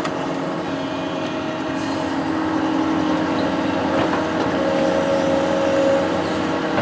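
Construction machine's engine running steadily, getting a little louder after about two seconds.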